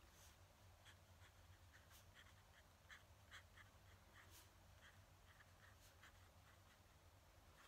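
Faint scratching of a fountain pen nib on paper: a run of short, quick writing strokes over a low, steady room hum.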